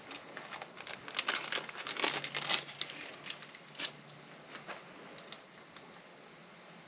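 Light clicks and crinkling as the small metal and plastic parts of a click pen kit are handled and fitted together by hand, busiest in the first few seconds and then thinning out.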